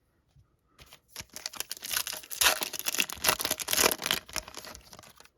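A foil trading-card pack being torn open and crinkled, a dense crackling rustle that starts about a second in and dies away near the end.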